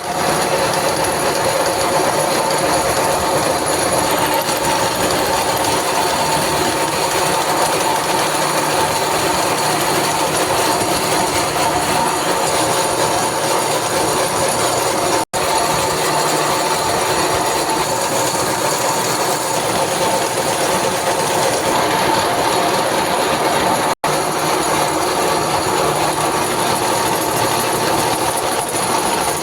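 Milling machine running, a constant dense mechanical noise with a few steady whining tones; it drops out for an instant twice.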